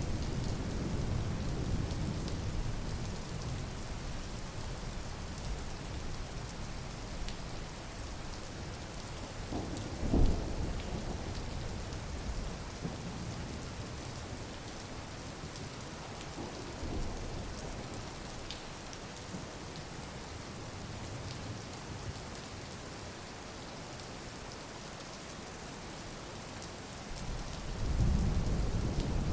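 Steady rain falling, a continuous hiss. Low rumbles swell at the start and again near the end, and a short sharp thump comes about ten seconds in.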